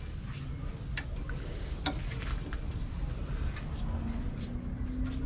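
Scattered light clicks and taps over a low steady rumble, with a faint hum coming in about four seconds in.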